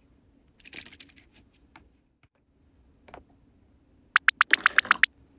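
Small plastic toy pieces being handled: faint scratching, then a quick run of about eight sharp clicks near the end.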